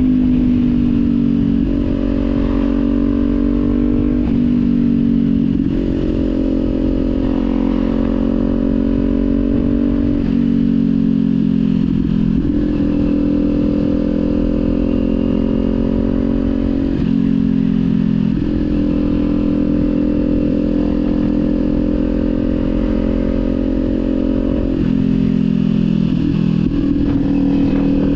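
Kawasaki sport bike engine running through a Leo Vince aftermarket exhaust while riding, its pitch jumping up and down several times with steady stretches in between.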